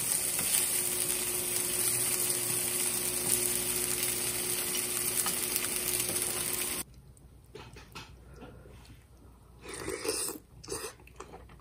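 Slices of Spam frying in a nonstick pan, a steady hiss of sizzling fat that cuts off suddenly about seven seconds in. After that it is much quieter, with a few brief knocks of tableware near the end.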